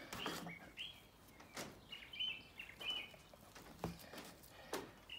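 Faint bird chirps in the background, short calls repeated several times, with a few soft clicks from hands working butcher's string around a rolled lamb roast.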